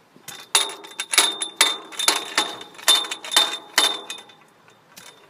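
Young roller pigeons' wings clapping and flapping as they take off, a quick run of sharp claps, two to three a second, that dies away about four seconds in.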